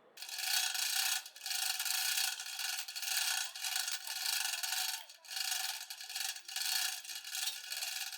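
Repeated hand scraping or rubbing strokes of a tool against a hard surface, a hissy rasping noise with short breaks between strokes, stopping suddenly at the end.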